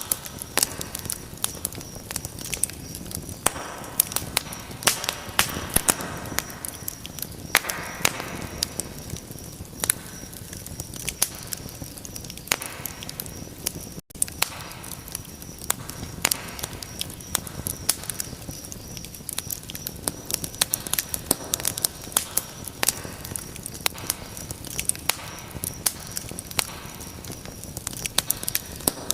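Wood fire in a fireplace crackling: dense, irregular sharp pops and snaps over a soft hiss of burning, with a momentary dropout about halfway through.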